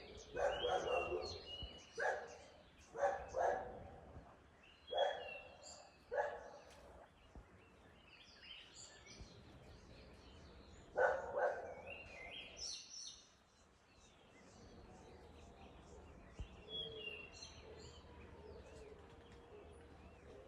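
Birds chirping and calling in thin high notes, with a run of short, loud barks: several in the first six seconds and a pair about eleven seconds in.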